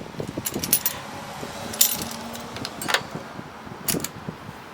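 Vise grips clinking and scraping against a lawn mower's old exhaust as it is worked loose from the engine: several sharp metallic clinks, roughly one a second, over a light rattling.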